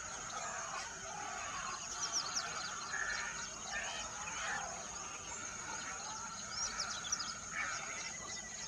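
Several songbirds chirping and calling, with many quick down-slurred chirps over a steady, high-pitched drone.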